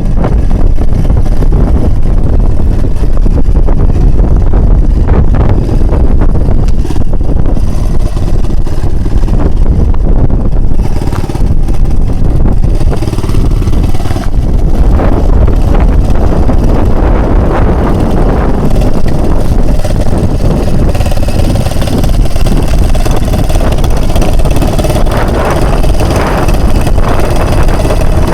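Small Honda BF 2.3D four-stroke outboard running steadily, pushing an inflatable boat along, under heavy wind buffeting on the microphone.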